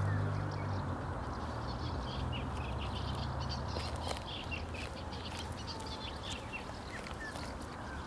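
Birds calling in many short high chirps over a steady rushing noise, with a low hum fading out in the first second.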